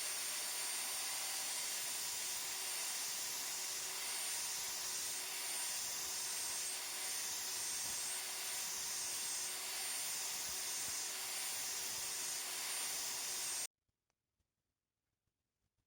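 A machine running steadily with a high, even hiss, cutting off abruptly about fourteen seconds in.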